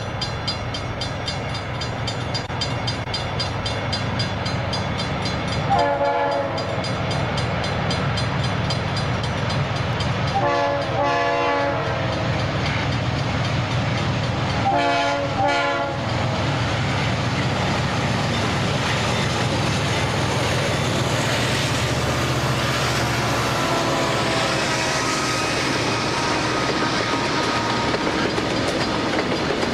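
Southern Pacific freight train's lead diesel locomotives passing with engines running, the air horn sounding three times in the first half, the middle blast the longest. After that comes the steady clatter of the freight cars rolling by.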